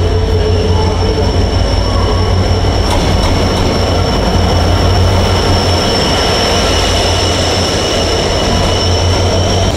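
A Sri Lanka Railways Class M11 diesel-electric locomotive and its passenger carriages pull into the platform. A low engine rumble runs under a steady high-pitched metallic squeal from the train as it slows, and the squeal grows stronger a few seconds in.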